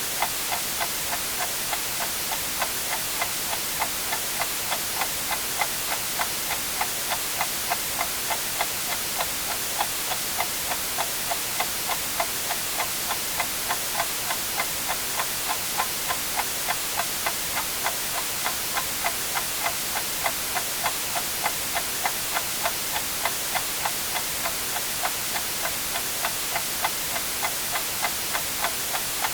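A clock ticking steadily at about two ticks a second over a constant white-noise hiss.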